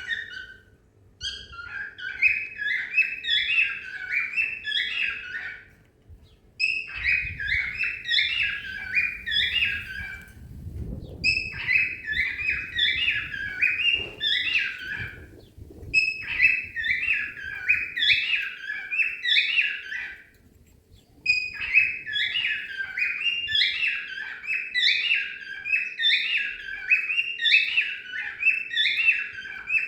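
Cockatiel singing: bouts of rapid, repeated chirping whistle phrases, each a few seconds long, broken by short pauses.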